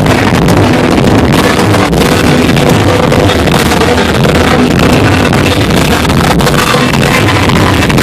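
Live country-rock band with electric guitars playing loud in an outdoor amphitheatre, heard from the audience.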